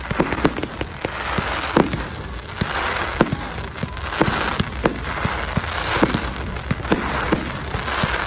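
Fireworks display: sharp firework bangs, irregular, about one or two a second, over a continuous crackling hiss.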